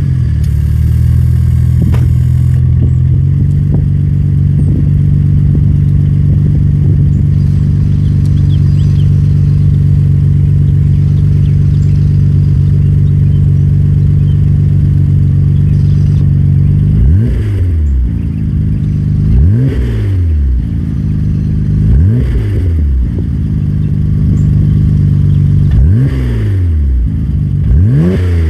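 Nissan Skyline R34 GT-R's twin-turbo straight-six idling warm, heard through a Midori Seibi titanium muffler, steady for about the first 17 seconds. It is then blipped in a series of short revs, each rising and falling back to idle about every two to three seconds.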